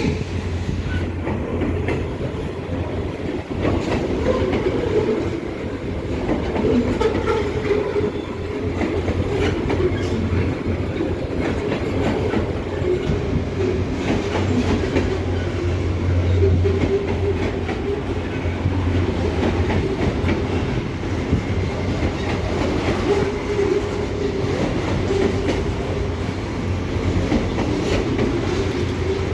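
Freight train cars rolling past steadily, with a continuous low rumble and the wheels clicking over the rail joints.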